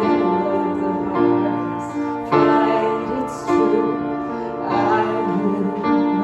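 Live worship song: piano struck in slow sustained chords about once a second, with a woman singing over it.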